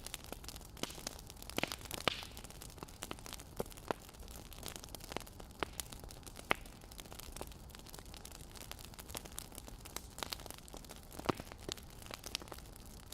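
Wood fire crackling: irregular sharp pops and snaps over a steady low hiss, a few louder pops standing out.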